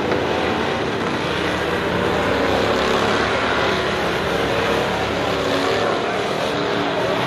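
Several race car engines running together in a steady loud drone, with wavering engine pitches, swelling slightly about three seconds in.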